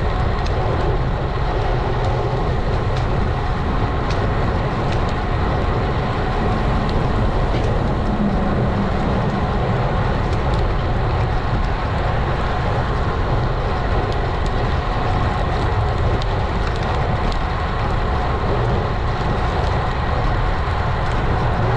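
Steady wind and road noise from riding a road bike, heard through a bike-mounted action camera's microphone: a constant low rumble with a hiss over it and a few faint ticks.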